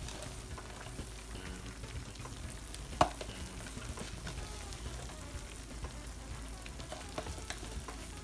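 A hot dish of enchiladas sizzling and crackling, with scattered small ticks and one sharper knock about three seconds in.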